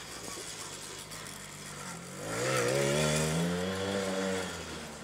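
Small 50cc two-stroke quad bike engine running at low revs, then revving up about two seconds in, holding higher revs and easing off near the end.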